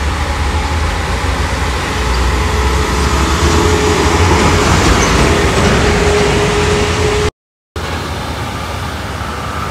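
Heavy truck diesel engine running hard under load on a steep climb, a steady low rumble with a steady whine over it. The sound drops out completely for about half a second about seven seconds in, then resumes.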